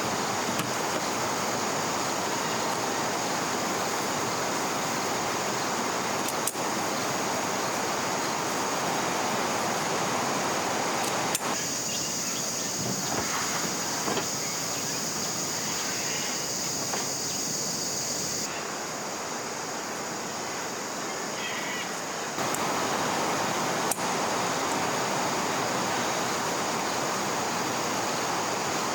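Steady rushing noise of flowing river water, with a steady high-pitched hiss over it. The sound changes abruptly three times.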